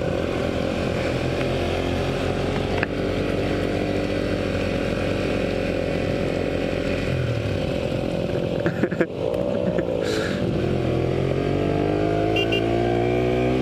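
Motorcycle engine running steadily under way. It drops off briefly about nine seconds in, then picks up with a rising pitch as the bike accelerates.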